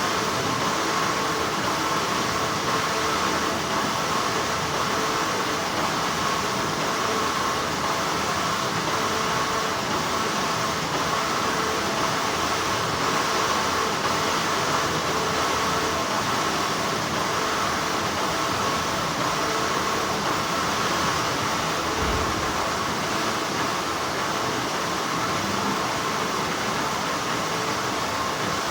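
Continuous hum of textile factory machinery, a steady wash of noise with a faint steady whine in it.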